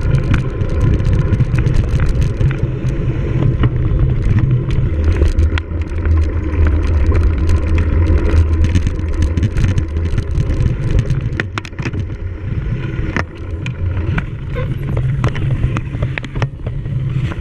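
Cyclocross bike being raced over rough ground, heard from an onboard camera: a steady low rumble of wind and tyres on the microphone with frequent rattles and knocks from the bike over bumps.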